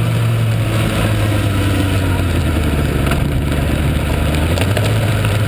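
Motorcycle engine running at low, steady revs as the bike rolls slowly, picked up by a camera mounted on the bike.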